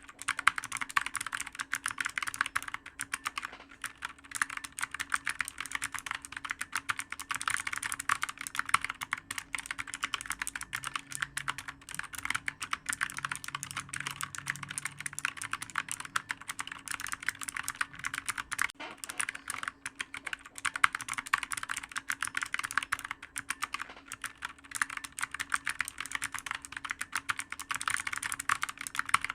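Continuous fast typing on a computer keyboard: a dense, unbroken stream of clicky keystrokes.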